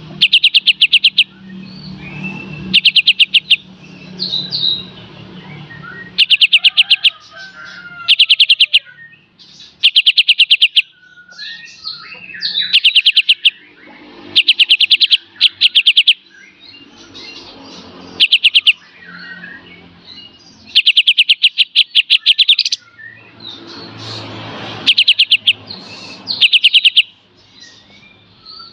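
Kapas tembak songbird singing in its full "beset" and "tembak" style: loud, rapid staccato trills about a second long, repeated every couple of seconds, with softer, varied chattering notes in between.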